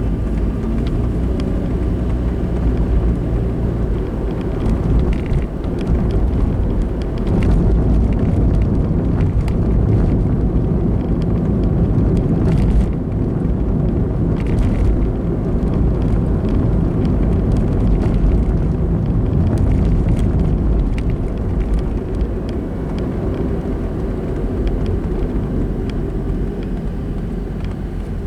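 Car driving along a road, heard from inside the cabin: a steady low rumble of engine and tyre noise that swells slightly and eases off.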